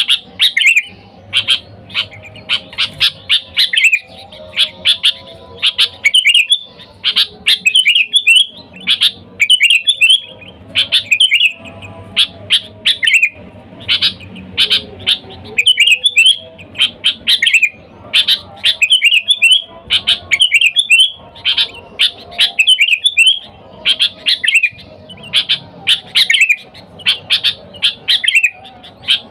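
Sooty-headed bulbul singing loudly and without a break: short, bubbling chattering phrases, repeated about once or twice a second.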